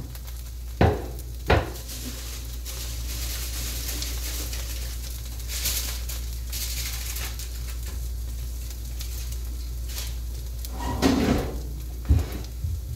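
Mashed potato pancake sizzling steadily in butter in a frying pan. A couple of sharp kitchen knocks come about a second in, and a short clatter of knocks near the end.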